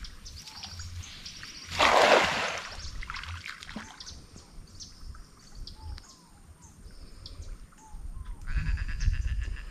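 Birds calling outdoors with many short, repeated chirping notes, over a low rumble. About two seconds in, a loud rush of noise lasts under a second.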